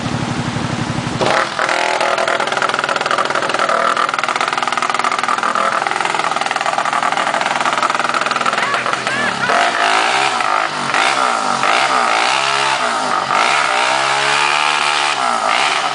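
Quad bike engine idling with a low, even pulse, then revved up about a second in and run hard, its pitch rising and falling.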